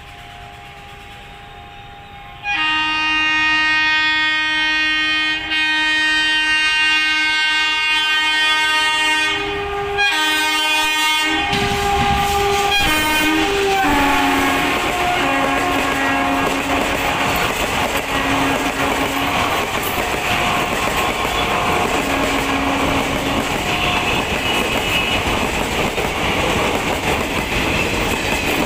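Indian Railways WAP-4 electric locomotive sounding its multi-tone horn in a long blast from about two seconds in, then a second blast that drops in pitch as the locomotive passes. The passenger coaches follow, rumbling and clattering steadily over the rail joints as they roll by.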